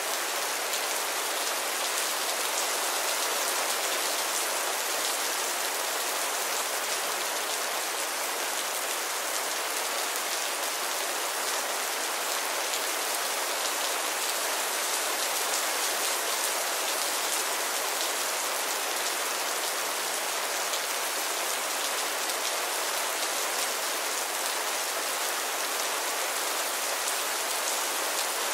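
Steady heavy rain: a dense, even hiss of falling drops that holds level throughout, with no thunder.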